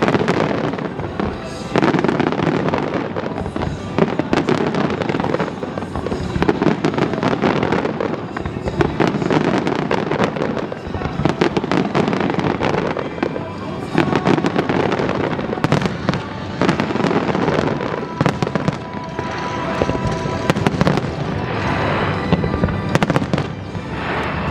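An aerial fireworks display firing continuously: a dense run of bangs and crackling bursts, with music playing underneath.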